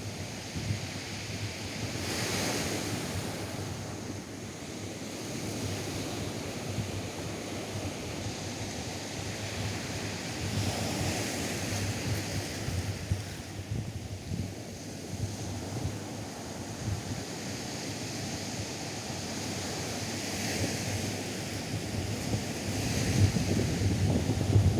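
Atlantic surf breaking and washing up a beach, swelling and easing every several seconds. Wind buffets the microphone with a low rumble that gusts harder near the end.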